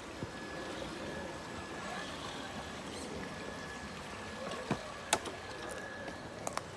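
Electric RC rock crawler driving slowly with a thin, steady motor whine that breaks off twice, over flowing water, with a few sharp clicks in the second half.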